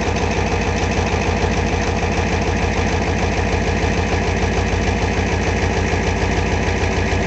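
Ford 7.3 IDI V8 diesel engine of a 1991 F-250 idling steadily after a cold start at about −5 °C, with an even, regular run of firing pulses. It runs smoothly, which the owner takes as a sign of a tight, healthy engine.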